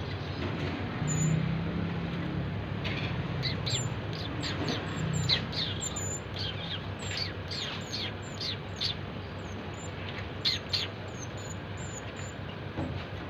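A small songbird chirping repeatedly in quick, high, downward-sweeping notes, thickest in the middle of the stretch, over a steady low hum.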